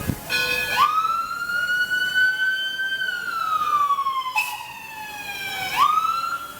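A mechanical siren winds up sharply, slowly wails down in pitch, then winds up again near the end. Short steady whistle chords sound under it at the start and again about four seconds in.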